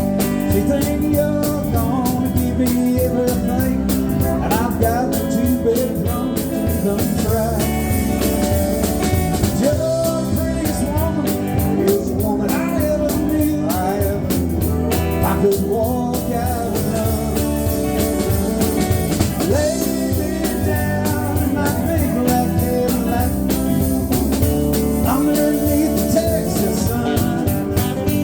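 Live country-rock band playing an instrumental passage: a sliding electric guitar lead over bass and a steady drum beat.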